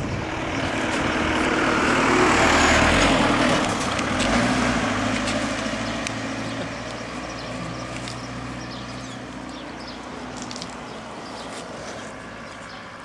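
A motor vehicle, likely a truck, passing by: its engine and road noise swell to a peak a couple of seconds in, then slowly fade away.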